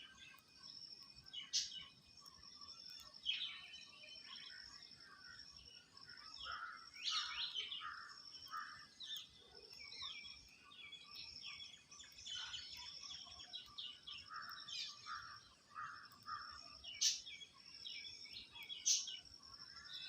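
Birds chirping in short, repeated clusters of calls over a steady high-pitched buzz.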